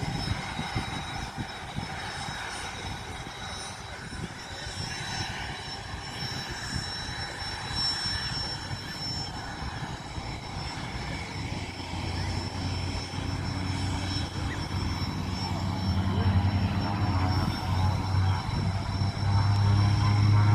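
Aircraft engines running with a steady high whine. In the second half a deep low hum builds in and grows louder, as the aircraft comes closer or powers up.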